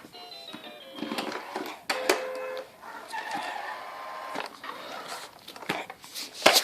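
Electronic beeps and short stepped melody fragments from a toy car, mixed with clicks and knocks from handling it, the loudest knock near the end.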